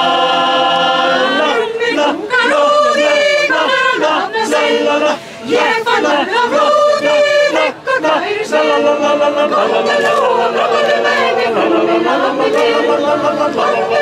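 Yodel club choir singing a cappella in several parts: a held chord opens, then moving phrases with brief breaks about five and eight seconds in.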